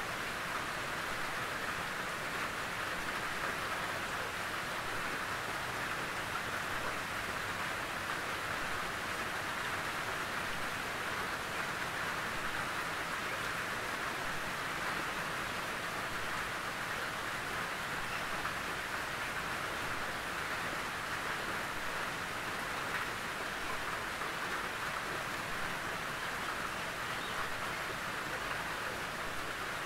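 Steady rain falling on a tin roof, an even pattering hiss that neither builds nor fades.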